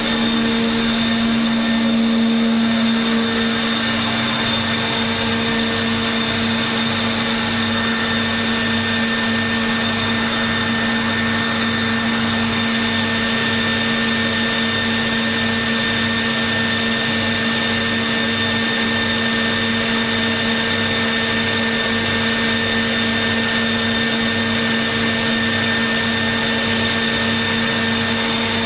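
Daikin water-cooled chiller running steadily: a loud, even machine hum with a constant high whine and a fast regular pulse underneath.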